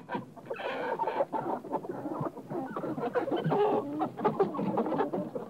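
Several chickens clucking in a quick, uneven run of short clucks, with a louder, higher-pitched stretch about a second in.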